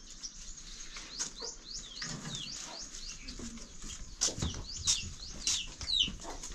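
Small birds chirping over and over: short, high, falling chirps that come thicker toward the end. A few low thumps sound a little past the middle.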